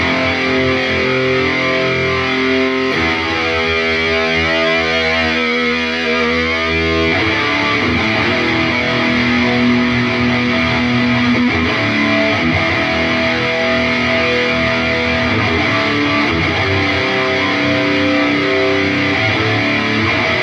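Distorted electric guitar played through an Atomic AmpliFire modeler pedal and heard over cheap computer speakers: changing notes and chords, with one chord left ringing from about three to seven seconds in.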